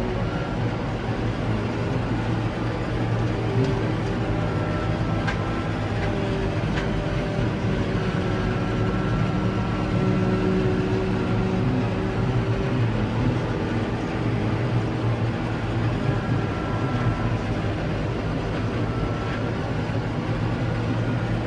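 Tractor and Claas Jaguar 860 forage harvester running at steady working speed while the harvester fills the trailer with chopped maize: a continuous loud engine drone, with a faint higher whine that comes and goes.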